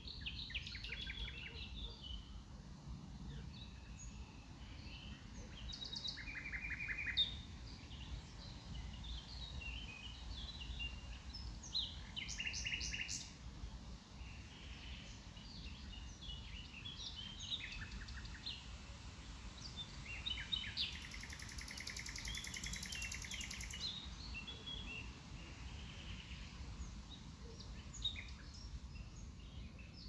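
Wild songbirds chirping and calling in scattered short phrases and trills, with a longer buzzy trill around two-thirds of the way in, over a steady low rumble.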